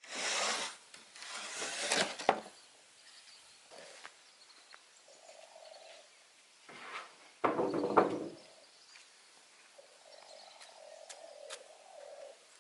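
Wood being sawn in a couple of short strokes, then scattered knocks and one louder scraping rustle of handled wood. A dove or pigeon coos faintly in the background near the end.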